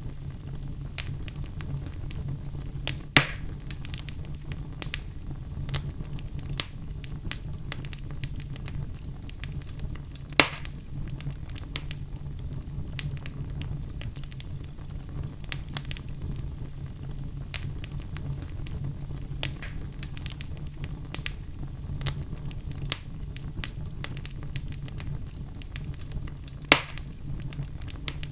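Wood logs burning in a fireplace: a steady low rumble of the flames with frequent small crackles and three louder sharp pops.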